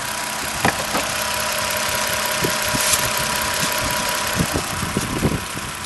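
V6 engine of a four-wheel drive running steadily, with a few short clicks and knocks over it.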